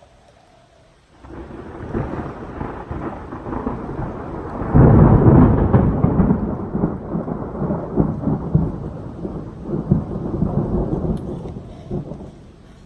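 Thunder rumbling: it starts about a second in, swells to its loudest about five seconds in, then rolls on and fades near the end.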